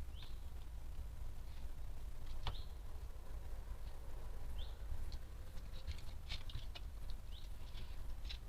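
Scattered short, high chirps and squeaks from a small animal, some rising quickly in pitch, over a steady low rumble.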